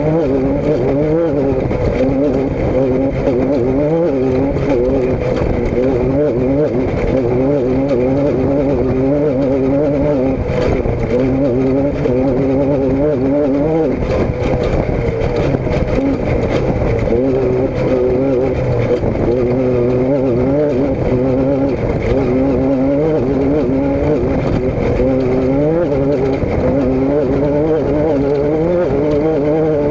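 Car engine running steadily, its pitch wavering up and down with the throttle.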